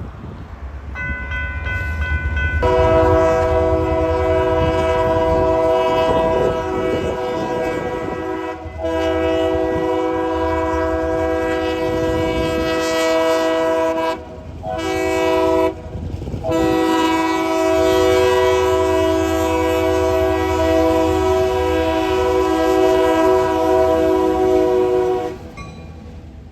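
Locomotive's multi-chime air horn sounding a chord in two long blasts run almost together, a short one, then a long one: the grade-crossing signal. A low rumble of the moving train and wind runs underneath.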